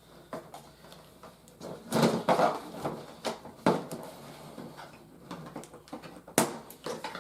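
Plastic toy helicopter parts and packaging being handled and lifted out of the box: irregular rustling and clacking, with a cluster of louder clatter about two seconds in and a sharp knock near the end.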